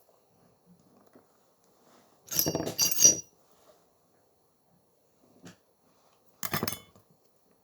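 Small hard objects, such as repair tools or parts, clinking and clattering against a work surface in two bouts, a longer one about two seconds in and a shorter one near the end, with a light metallic ring.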